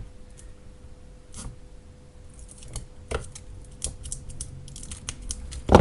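Hands working on an e-bike battery pack and its plastic case: scattered clicks, taps and scrapes, with one louder knock near the end.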